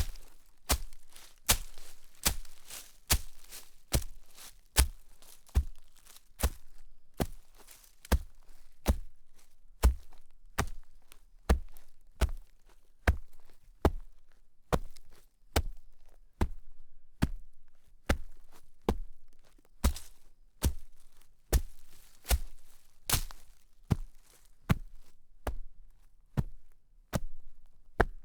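Footsteps crunching in snow at a steady walking pace, about one step every 0.8 seconds.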